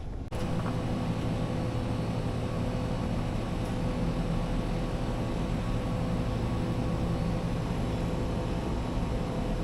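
Outdoor heat pump units running, a steady hum of compressor and fan with a constant tone, starting abruptly about a third of a second in.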